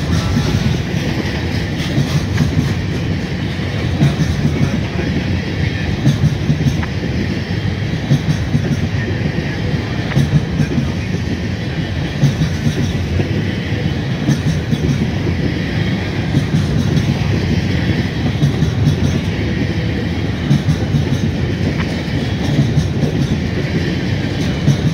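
Freight train of covered hopper cars rolling past close by: a steady rumble of steel wheels on rail, with a rhythmic clickety-clack of wheelsets crossing rail joints about every two seconds.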